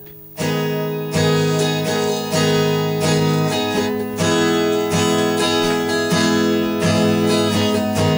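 Acoustic guitar strummed in a steady rhythm of chords, starting about half a second in: an instrumental introduction before the singing begins.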